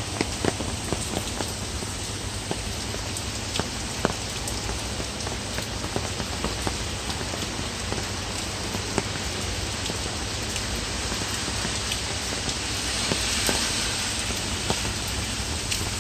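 Heavy rain pouring steadily, with many sharp drop impacts splattering on hard surfaces, swelling briefly near the end.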